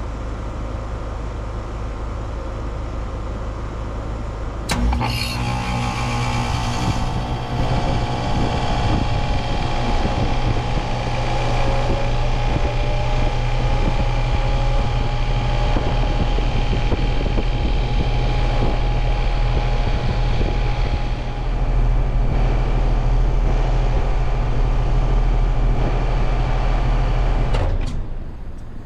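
Rheem Endeavor RP14 heat pump outdoor unit starting up: a sharp click about five seconds in, then the compressor and fan come on and run with a steady hum and a whine. The unit gets louder again later on and then cuts off suddenly near the end, leaving a low hum.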